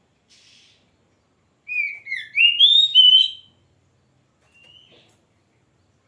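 Oriental magpie-robin singing: one loud phrase of quick, sliding whistled notes, sweeping up and down, lasting under two seconds and starting about two seconds in. A single faint rising whistle follows near the end.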